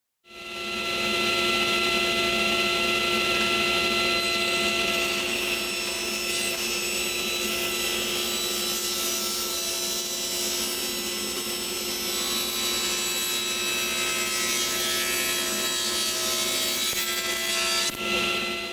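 Drum sander running with a steady motor hum while a wooden piece is fed through, the sandpaper-wrapped drum grinding it down to a narrower width. It starts suddenly and cuts off just before the end.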